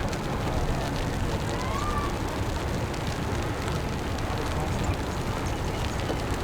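Steady city street noise with a low rumble, likely traffic, and faint voices of passers-by.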